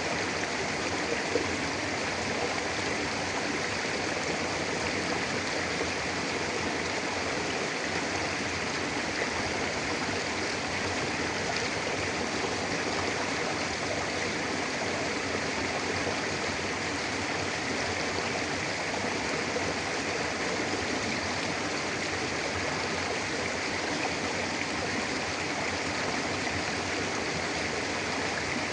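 Mountain river flowing over rocks: a steady, even rushing of water with no breaks.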